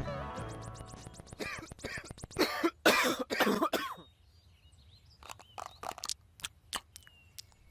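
A cartoon character coughing and making throaty vocal noises for a couple of seconds, after a quick run of clicks. Then a few scattered clicks follow.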